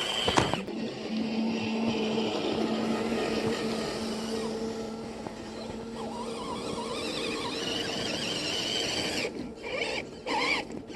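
Electric motor and gearbox of a radio-controlled scale truck whining steadily as it drives, with a steady hum under a noisy rush; near the end the sound cuts out briefly several times as the throttle is let off and reapplied.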